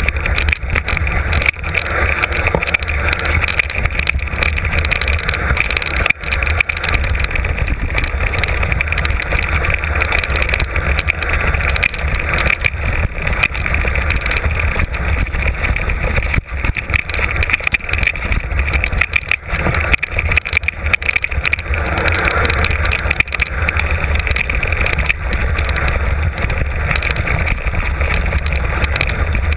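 Mountain bike on a fast downhill run, heard from an on-board camera: a constant low wind rumble on the microphone, with the rattle and clatter of the tyres and frame over rough ground.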